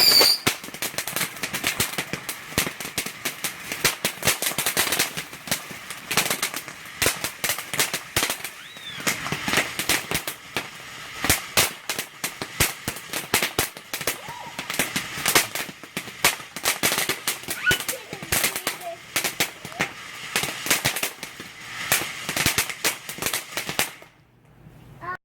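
Consumer fireworks going off as a rapid, irregular run of sharp cracks and pops lasting over twenty seconds, then stopping suddenly about a second before the end.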